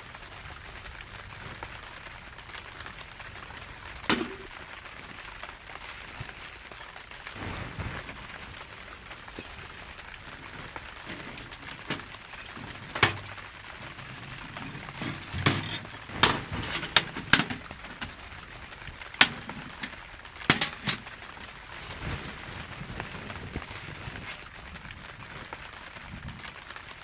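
Steady rain hiss, with scattered sharp clicks and knocks, a dozen or so, bunched around the middle.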